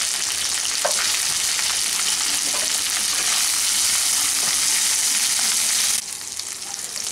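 Chopped tomatoes and onions sizzling in hot mustard oil in a kadai while a spatula stirs them. The sizzle drops suddenly about six seconds in.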